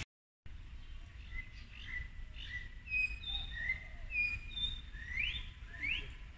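Songbirds singing: a run of short, clear whistled notes, ending with two quick rising sweeps, over a faint low background hum.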